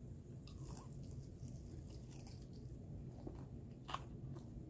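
A person chewing food quietly, with faint scattered clicks and one sharper click near the end.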